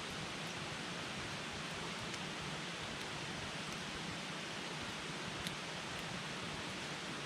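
Wood campfire burning with a steady hiss and a few faint crackles.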